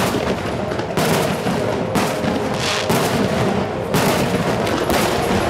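Aerial firework shells bursting overhead, a sharp bang about once a second over a continuous din.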